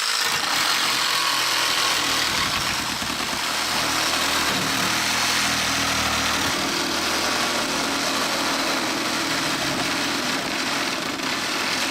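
A motor running steadily: a loud, even noise with a low hum underneath.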